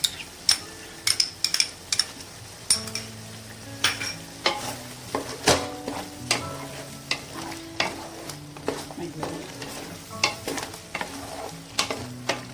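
A spoon stirring chicken curry in a cooking pot, with irregular clinks and knocks against the pot over a low sizzle.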